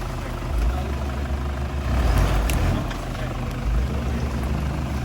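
Off-road 4x4's engine running with a steady low rumble, with a brief swell of louder noise about two seconds in.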